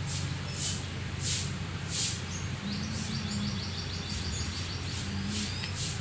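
Birds chirping, short high calls repeating about every two-thirds of a second with a quick rattling trill near the middle, over a steady low hum.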